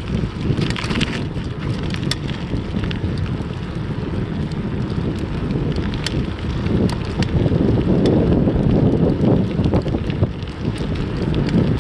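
Wind buffeting the microphone on a moving bicycle, a loud steady low rumble, with scattered light clicks and rattles.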